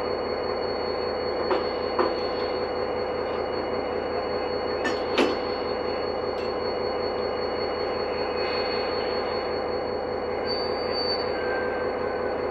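Steady mechanical drone with a constant high whine from a stationary diesel locomotive and its coupled coach. A few sharp metallic clicks come about two seconds in and again near five seconds.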